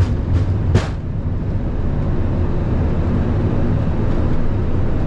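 Airbus A350-900 flight deck at takeoff thrust, its Rolls-Royce Trent XWB engines and the airflow making a steady low rumble. A run of sharp knocks from the wheels rolling over the runway, about two to three a second, stops about a second in, as the aircraft lifts off, leaving only the steady rumble and rush.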